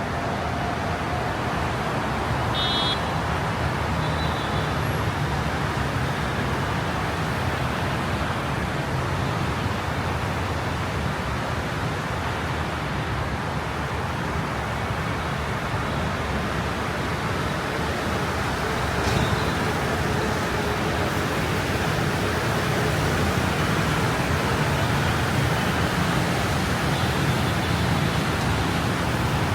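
Metro train running, heard from inside the carriage: a steady low rumble under an even rush of noise.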